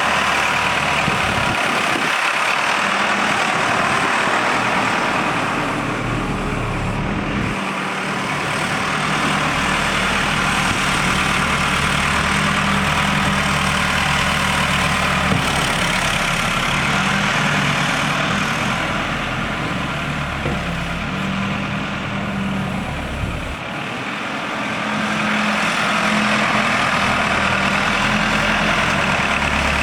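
Diesel engine of a 1998 Case 580 Super L loader backhoe running steadily, its sound easing off briefly about six seconds in and again for several seconds past the middle.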